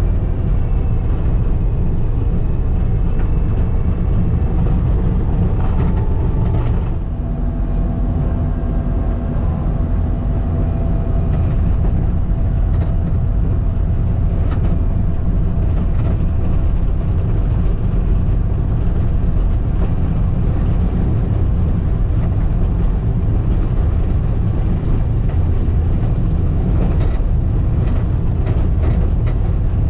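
Skid steer's diesel engine running steadily under load while it grades a gravel driveway with a grader attachment.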